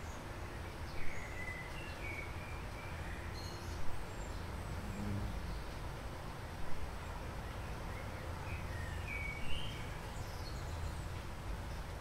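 Short, thin bird chirps recurring about every three seconds over a steady low outdoor rumble.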